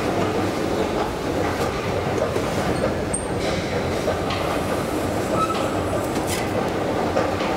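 Steady rumble of a metro train running through the station.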